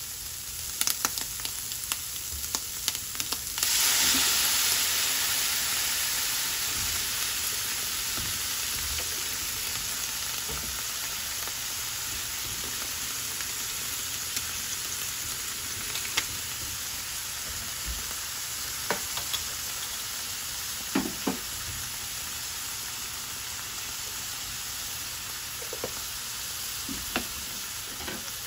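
Bacon and green pepper strips sizzling in a hot nonstick frying pan, with a few light clicks. About four seconds in the sizzle jumps suddenly louder as liquid seasoning hits the hot pan, then slowly settles back to a steady frying hiss.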